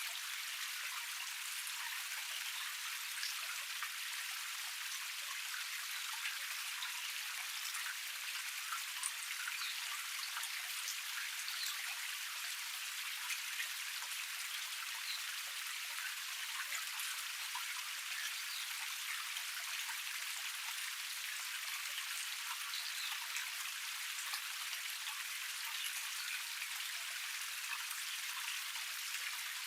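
Small cascade waterfall: a steady hiss of water running and splashing over the tier, dotted with many small droplet splashes.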